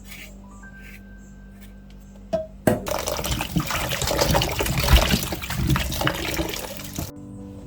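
Water running hard from a kitchen tap and splashing, starting with a click about two and a half seconds in, cutting off sharply near the end, then starting again.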